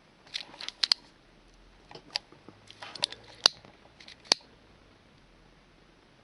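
Small handling clicks and ticks from work on a paracord bracelet, irregular and scattered, the two sharpest about three and a half and four and a quarter seconds in.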